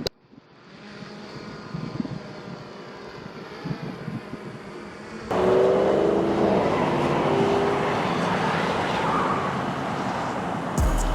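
Motor vehicle engine and road noise. About five seconds in it suddenly gets much louder, with an engine note falling in pitch.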